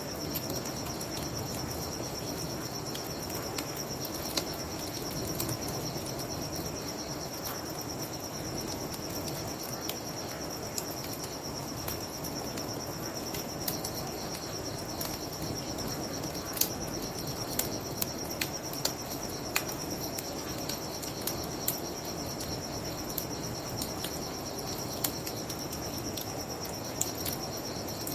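Crickets chirring in a steady high band over a low, even rush of flowing river water, with scattered sharp crackles and pops from a wood fire.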